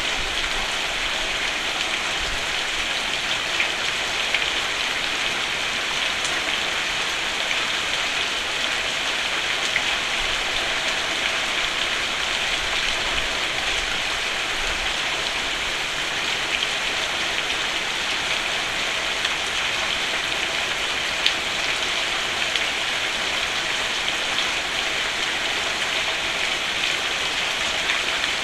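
Steady rain falling on a roof, an even hiss of many drops with the occasional louder single drop tapping.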